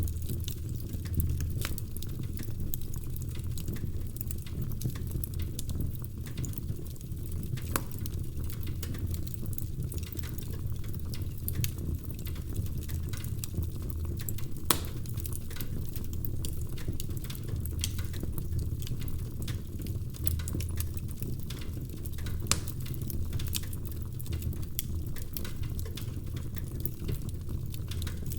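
Log fire crackling steadily: a dense stream of small pops and ticks over a low rumble, with a few louder snaps now and then.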